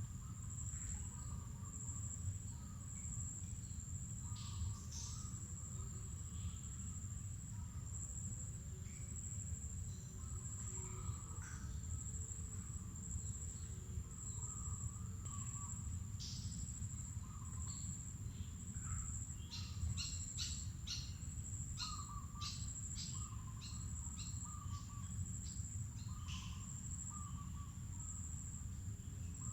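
Mangrove forest ambience: a steady, high-pitched insect drone under scattered bird calls, with a run of quick, sharp chirps past the middle, over a low rumble.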